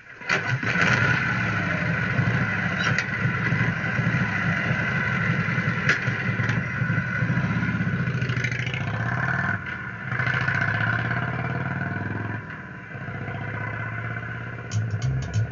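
Motorcycle engine starting and revving, its pitch rising and falling. A band with guitar and bass comes in near the end.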